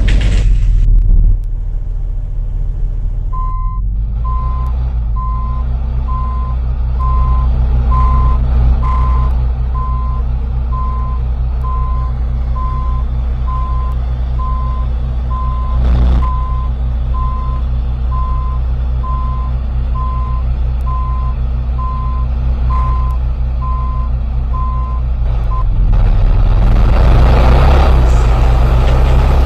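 A bus's engine running at idle while its warning beeper sounds a single high beep about once a second for some twenty seconds, with one knock partway through. Near the end the beeping stops and the engine grows louder as the bus moves off.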